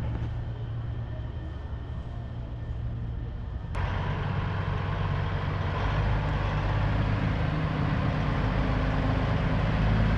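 Large diesel truck engine idling with a steady low rumble. About four seconds in, the background noise abruptly gets louder and fuller.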